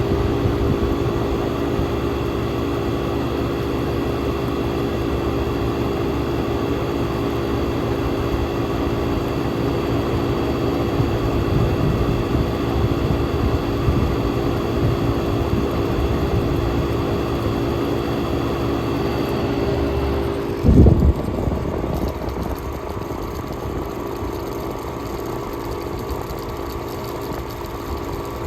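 1967 Chrysler Imperial engine idling steadily with a steady hum. About twenty seconds in there is a short loud thump, after which it runs a little quieter.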